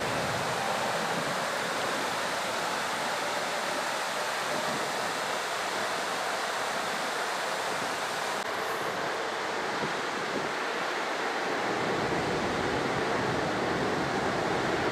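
Floodwater rushing steadily through a breached river levee, a continuous even roar of moving water.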